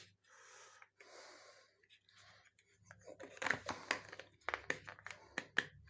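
Mayonnaise container being struggled open by hand: faint handling at first, then a run of irregular clicks, scrapes and crinkling from the cap and seal over the last few seconds.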